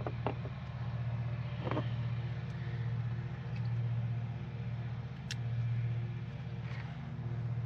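A lawn mower engine running steadily, its level swelling and fading every couple of seconds, with a few light clicks over it.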